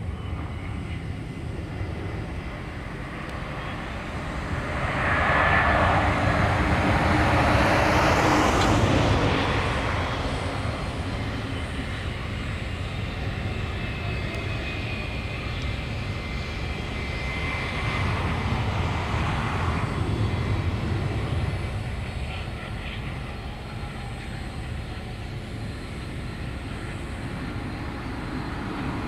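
Jet airliner engines passing by: the sound swells to its loudest about five to ten seconds in, with a whine that drops in pitch as the jet goes past, then eases off. A second, quieter swell follows a few seconds later over a steady rumble.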